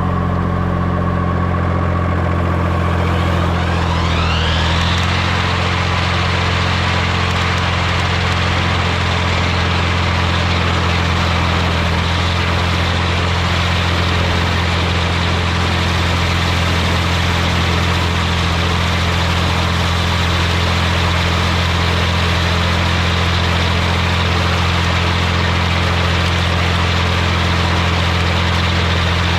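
Massey Ferguson 245 tractor's diesel engine running steadily at working speed for mowing. A whine rises over the first few seconds as it comes up to speed, then holds steady.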